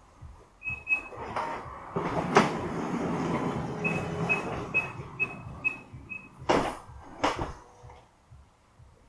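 Nissan Serena minivan's door being worked: a warning chime in short high pips, a rolling sliding sound through the middle, then two heavy thumps near the end as it shuts.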